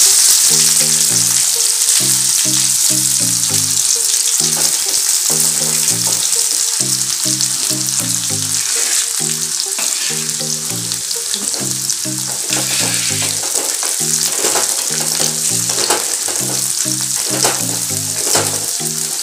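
Onions and garlic sizzling in hot oil in a kadhai, loud at first and slowly easing off. In the second half a wooden spatula scrapes and stirs through them in short strokes. Background music plays a steady melody underneath.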